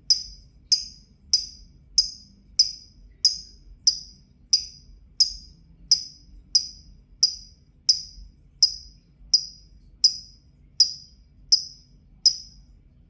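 Lovebird 'ngetik': a steady series of short, sharp, high-pitched 'tik' calls, about one and a half a second, like typing, about twenty in all, stopping shortly before the end.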